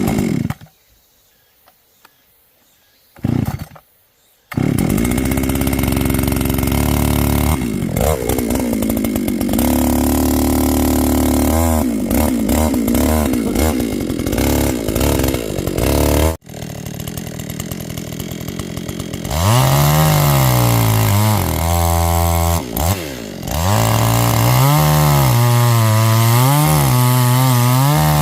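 Two-stroke chainsaw: two short sputters, then the engine catches and runs about four seconds in. It drops back briefly midway, then revs up and down over and over under load, as when cutting wood.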